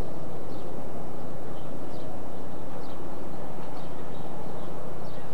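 Small birds chirping, short repeated downward chirps about twice a second, over a steady low rumble.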